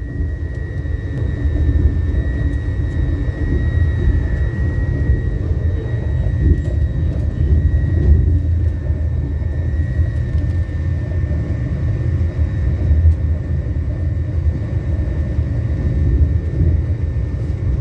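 Passenger train running, heard from inside the carriage: a steady low rumble with a thin high whine that fades away about halfway through.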